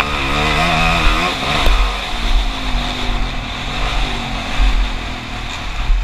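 Motocross bike engine revving, its pitch rising and falling in waves over a heavy low rumble.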